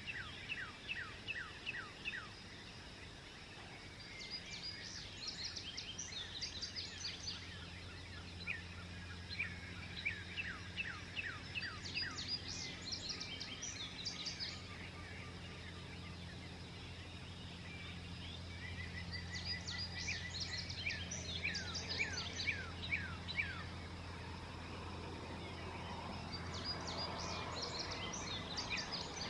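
Songbirds singing at dawn: bursts of quick, falling high notes repeated every few seconds, over a steady low hum.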